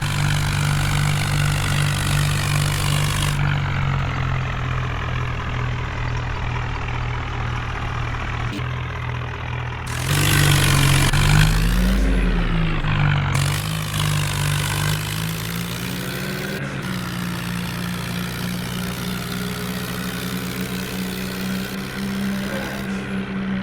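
Heavy diesel engines running steadily. About ten seconds in they rev up louder, the engine note rising and dipping for a few seconds, then settling at a steady, higher pitch.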